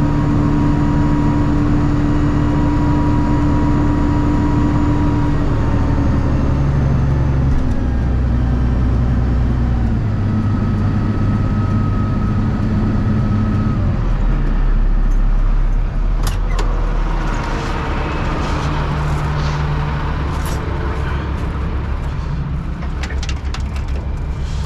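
A vehicle engine running, its pitch shifting up and down in steps several times. In the second half come scattered metallic clicks and clinks.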